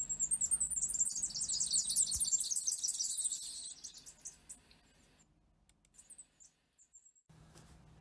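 Superb fairy-wren song: a rapid, high-pitched reeling trill of many quick notes lasting about four seconds, followed by a few faint high notes.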